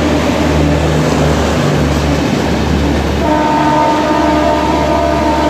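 Express train hauled by an electric locomotive running through a station at speed, with a loud, steady rumble. A little over three seconds in, the locomotive's horn sounds and holds a steady chord.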